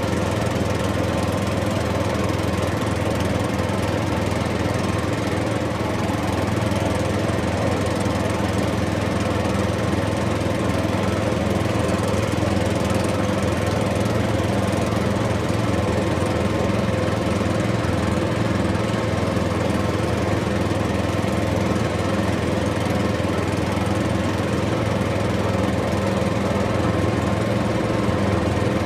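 A small motor running steadily with an even hum.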